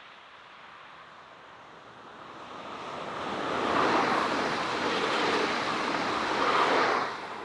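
SNCF TER regional multiple-unit passenger train passing at speed: a rushing of wheels on rails and air that builds as the train approaches and is loudest about four seconds in as the cars go by, then falls away near the end.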